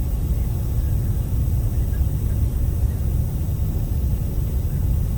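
Steady low rumble of an Airbus A380's engines and airflow heard inside the passenger cabin during landing.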